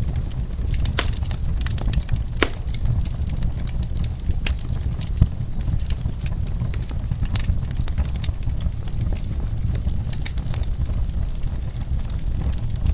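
Wood fire in a fireplace crackling: irregular sharp pops and snaps, a couple of louder ones about one and two and a half seconds in, over a steady low rumble of the flames.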